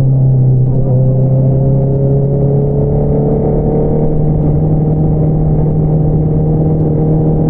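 A 2022 Honda CBR650R's inline-four engine running through an Akrapovič single-outlet exhaust under light throttle. The pitch dips briefly within the first second, then climbs slowly as the bike gently accelerates.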